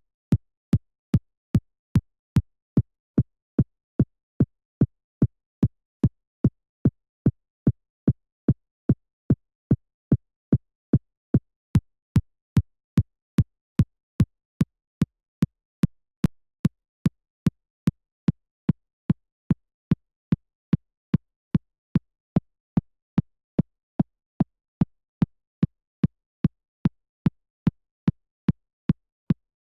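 Synthesized electronic kick drum looping alone, a steady four-on-the-floor pulse of about two and a third hits a second. Each hit is short, with a sharp click at the start over a deep low body, and there is silence between hits.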